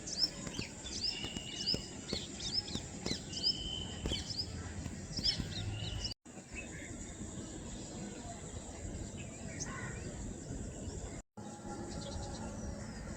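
Small birds chirping over a steady outdoor background hiss, with many quick high chirps in the first half that thin out later. The sound drops out briefly twice where the footage is cut.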